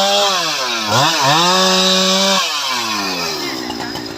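STIHL MS 881 single-cylinder two-stroke chainsaw running at high revs, dipping briefly about a second in, then the revs falling away to idle about two and a half seconds in.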